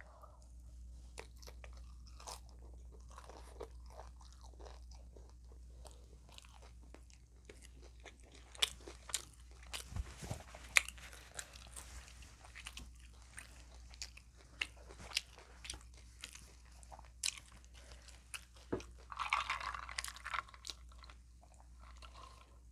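Close-miked crunching and chewing of hard, crunchy taco shells. There are scattered sharp crunches, coming thick and fast from about eight seconds in, with a longer crunching bite near the end.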